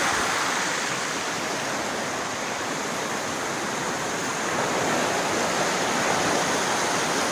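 Waterfall rushing steadily: a constant roar of falling water.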